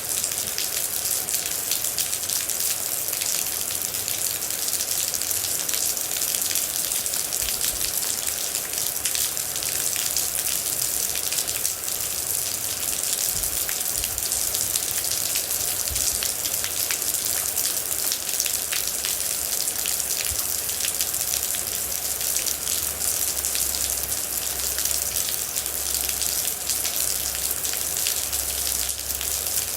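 Steady rain, a dense even hiss with many individual droplets pattering on a surface.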